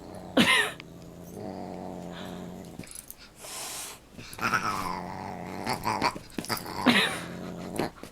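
Dog growling in a play fight with a cat, a low steady growl heard twice, broken by several short high cries that slide in pitch.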